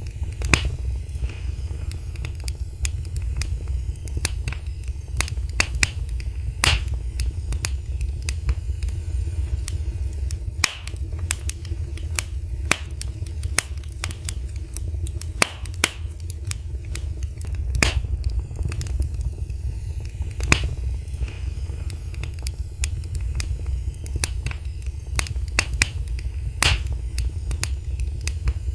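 Wood fire crackling and popping: irregular sharp snaps, several a second, over a steady low rumble of burning.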